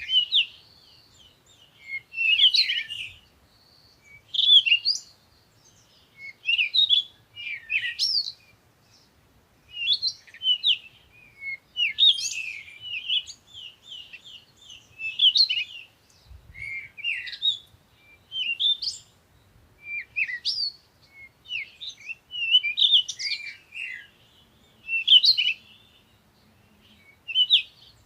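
Songbirds singing: short phrases of quick, high chirps and trills, one after another every second or two.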